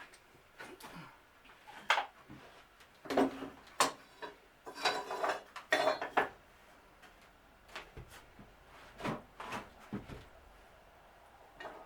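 Workshop handling noise: a string of knocks and clatters as hard objects such as tools or wood pieces are picked up and set down, busiest in the middle with a short scraping rub, then a few more knocks near the end.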